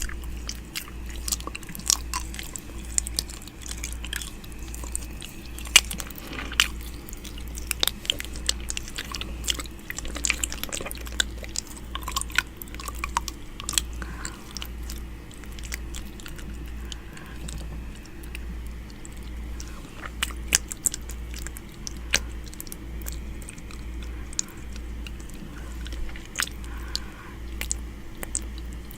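ASMR 'ear eating' mouth sounds made close to the microphone: a steady run of wet clicks, lip smacks and nibbling sounds. A low throb pulses underneath a little over once a second.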